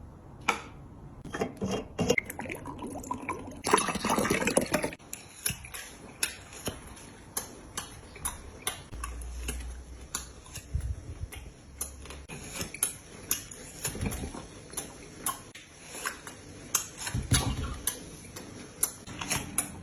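Close-up crunchy chewing of grilled cowhide: sharp crisp clicks about twice a second, with a louder, noisier crunch about four seconds in.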